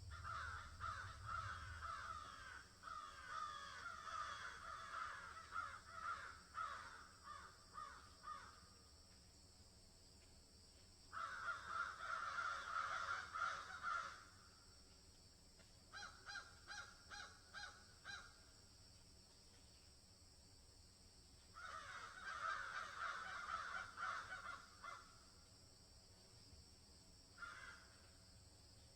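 Bird calls in bouts of rapid repeated notes, with pauses of a few seconds between bouts, over a steady faint high hiss.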